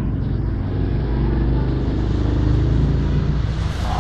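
A motor vehicle's engine running with a steady low rumble, with more hiss coming in near the end.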